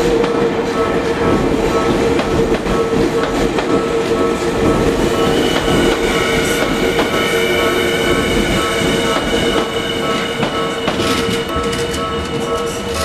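An electric commuter train running slowly over a level crossing, wheels clicking over the rail joints, while the crossing's warning bell rings on a steady tone. About five seconds in, a high whine joins.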